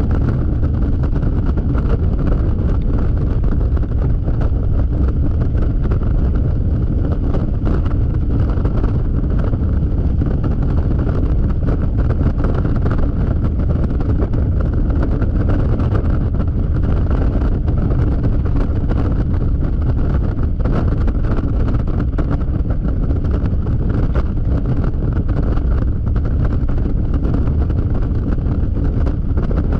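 Steady wind rush on the microphone of a Yamaha XMAX scooter riding at highway speed, with the scooter's engine and road noise running underneath.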